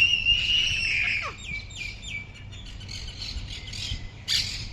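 Small birds chirping: a held high note, then a quick run of short downward chirps, with further scattered chirps.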